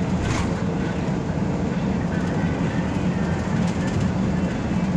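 Inside the cabin of a moving express bus: steady engine and road noise, with a short click about half a second in.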